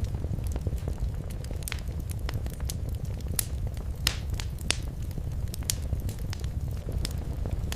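Wood fire in a fireplace crackling, with frequent sharp pops and snaps over a steady low rumble of the flames; the loudest pops come a little after three seconds and about four seconds in.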